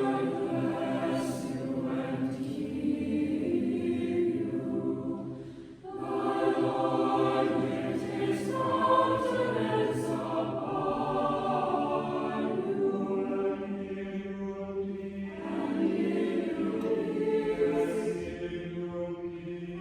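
Choral music: a choir singing sustained, held notes, with a short break about six seconds in.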